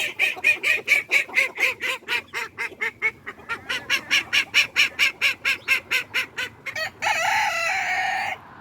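Backyard poultry calling: a long run of rapid, evenly repeated calls at about five a second, then one longer drawn-out call that cuts off shortly before the end.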